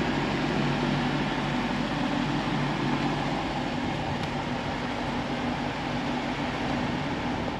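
Lexus LC500's 5.0-litre V8 idling with a steady low hum.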